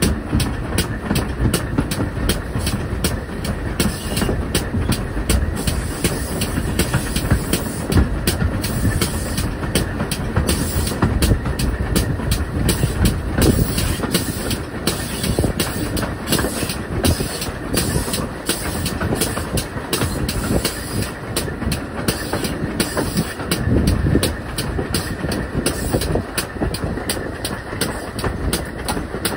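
A steam-hauled train, pulled by a pannier tank locomotive, running steadily along the track. It makes a continuous low running noise, with the wheels clicking over the rail joints.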